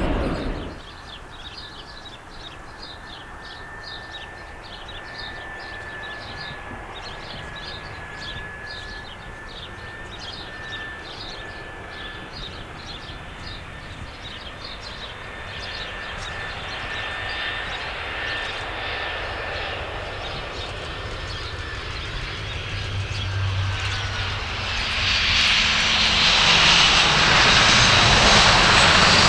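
Aircraft engines with a steady high whine that grows louder through the second half, swelling into a loud rush in the last few seconds.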